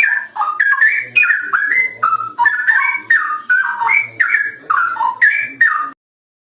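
Straw-headed bulbul (cucak rowo) singing a loud, continuous phrase of rich, rapid gliding whistled notes. It cuts off suddenly near the end.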